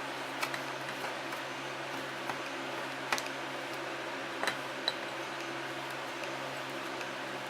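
A few light, sharp clicks and taps of small metal differential parts being handled and set in place, over a steady background hum.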